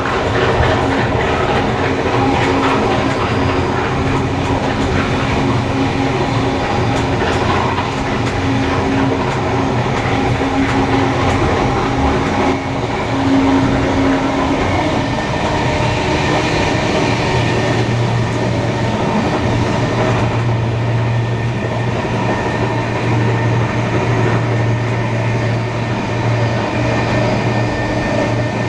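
Steam-hauled heritage train running steadily along the line, with wheels on rail and clickety-clack. A steady hum in the running noise gives way to a lower one about two-thirds of the way through.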